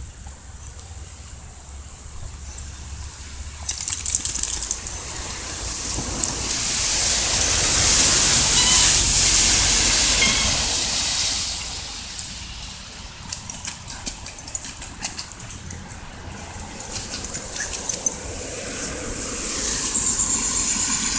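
Rain falling: a steady hiss with scattered drips and splashes, swelling louder for a few seconds in the middle and again near the end.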